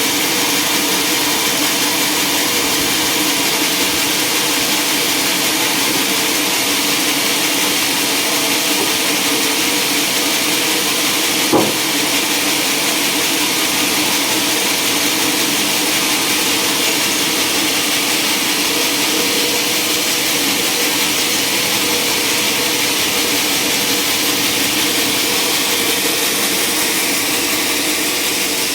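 Sawmill machinery running steadily with a constant, even noise, with a single brief knock about twelve seconds in.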